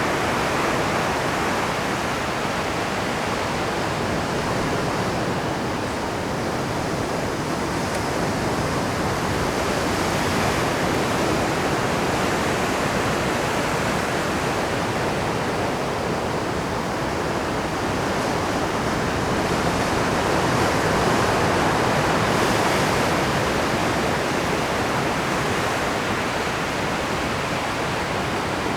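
Rough Pacific surf breaking and churning over shoreline rocks at high tide: a dense, continuous wash of water that swells and eases slowly, loudest a little past the middle.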